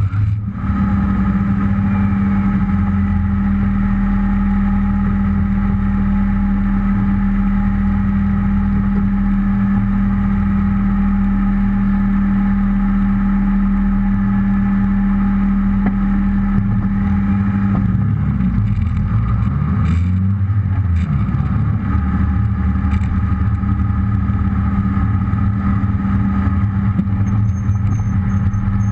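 Rally car engine idling steadily, heard close through the low onboard camera. About eighteen seconds in, its pitch rises and falls for a few seconds as the car moves off, then it settles back to a steady note.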